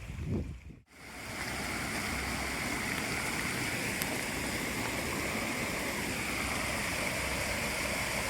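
Storm runoff from heavy rain rushing steadily through and over an undersized culvert, the water washing across. The flow sets in about a second in, after a brief gap.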